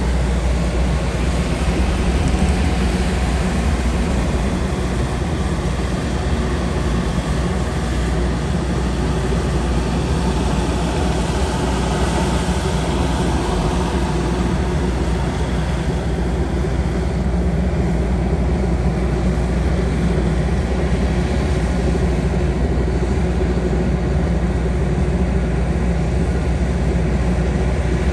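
Tracked skid steer's diesel engine running steadily under load, with a constant low hum and a hiss of noise over it.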